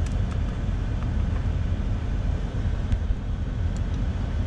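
Mercedes-AMG GT 63 S 4-door's 4.0-litre twin-turbo V8 idling, a steady low rumble heard from inside the cabin, with a few faint clicks from steering-wheel buttons.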